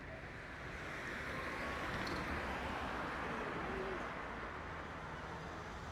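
A steady noise haze that swells about a second in and eases near the end, with a few faint, short bird-like calls over it.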